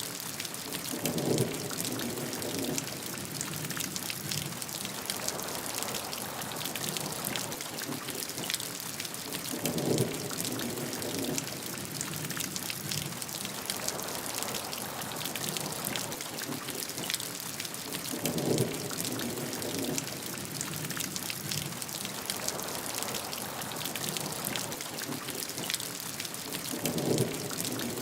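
Steady heavy rain hissing and pattering on a surface, with dense drop ticks. Short, low thunder rumbles come back about every eight and a half seconds, four times in all.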